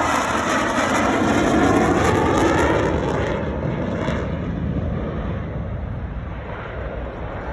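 Jet noise from an F-35's single Pratt & Whitney F135 turbofan as the fighter flies through on a pass at about 300 knots, slowly fading as it moves away.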